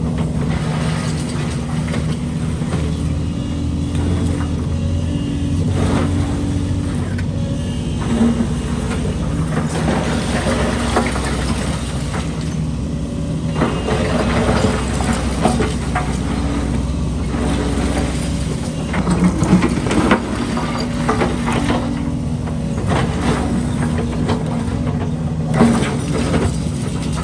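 Diesel excavator engine running and changing pitch as it works, with repeated clanks and scrapes of concrete rubble being handled.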